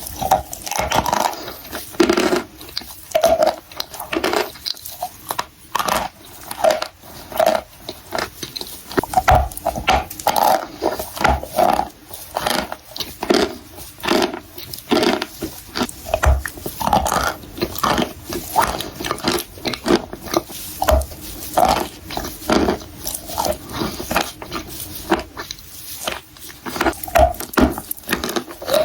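Close-miked biting and chewing of dry baked clay: irregular brittle crunches and crackles, several a second, with no pause.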